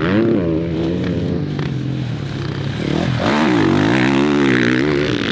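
Dirt bike engine revving hard, its pitch rising and falling with the throttle, with a sharp drop and climb again about three seconds in.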